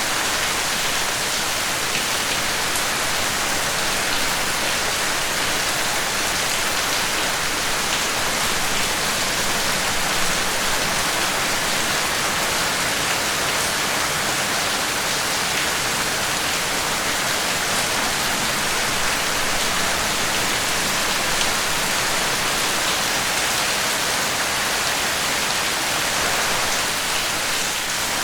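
Steady rain falling, an even hiss with faint scattered drop patter and no change in intensity.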